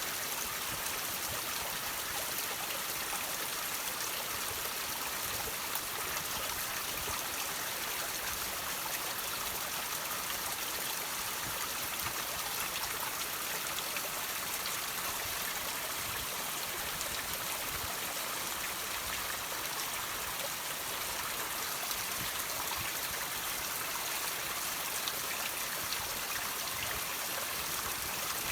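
Water running and trickling over rocks, with many small drips, in a steady bright hiss.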